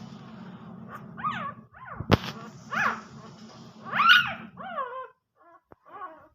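Three-day-old puppies whimpering and squealing: a string of short, high-pitched cries that each rise and fall in pitch, the loudest about four seconds in. A steady low hum sits beneath them and stops about five seconds in.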